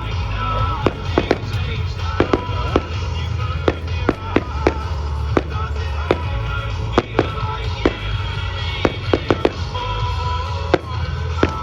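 Fireworks going off in a display: many sharp bangs and cracks at irregular intervals, over loud music with a steady bass.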